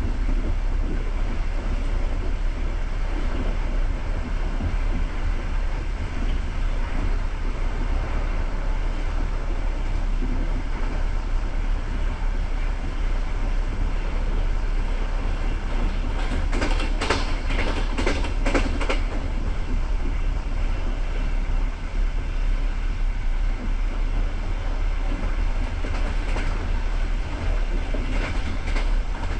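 Passenger train running at speed, heard from inside a carriage: a steady rumble of wheels and running gear, with a quick run of sharp wheel clicks about seventeen seconds in and a few more near the end.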